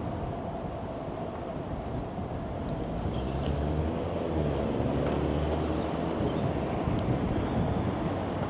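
Road traffic on a city street, with a large vehicle's engine running past and growing louder in the middle, and a few faint high squeaks.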